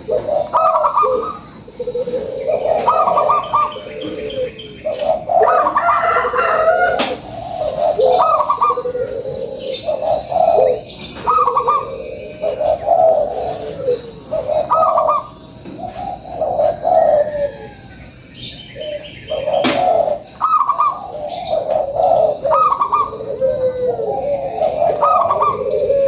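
Zebra dove (perkutut) cooing over and over, one rolling coo phrase after another with short gaps, the kind of song played as a lure to set other perkutut singing. A faint, evenly repeated high ticking runs behind it.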